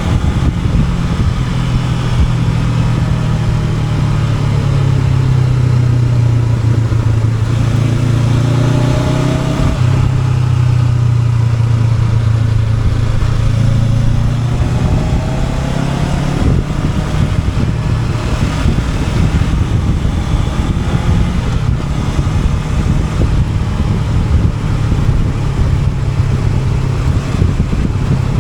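Honda NX500's parallel-twin engine running under way, its note rising and falling with the throttle and dropping suddenly about ten seconds in, over a steady rush of wind and road noise.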